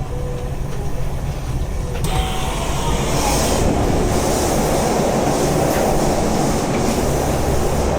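Hankyu Kyoto Line train running, heard from inside the car: a steady rumble of wheels on rail with a hiss over it. It grows louder about two to three seconds in.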